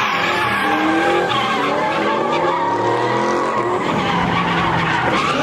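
A car's engine revving hard at high rpm, its pitch rising and falling repeatedly, with tires squealing as the car spins its wheels on the pavement.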